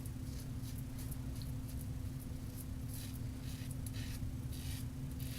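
Razor blade scraping through stubble in short repeated strokes, each a brief high rasp, over a steady low room hum.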